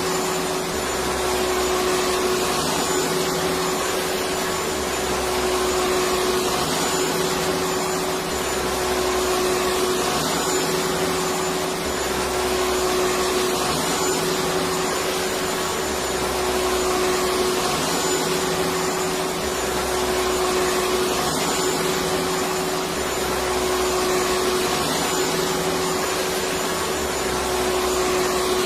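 Electric vacuum cleaner running steadily, a continuous rushing motor-and-air noise with a steady hum-like tone, and a faint low pulsing about every two seconds.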